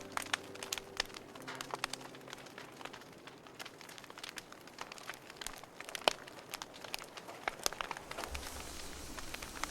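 Wood campfire crackling, with irregular sharp pops and snaps. The tail of a music track fades out in the first second or two, and a low rumble comes in near the end.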